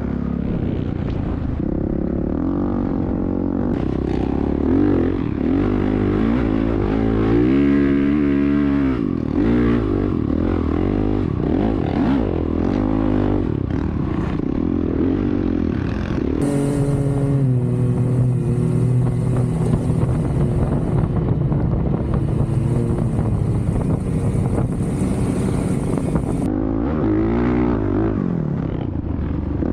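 Off-road vehicle engines running and revving on the dunes, pitch rising and falling repeatedly; from about halfway a steadier engine note holds for around ten seconds with a faint high whine over it, then revving resumes.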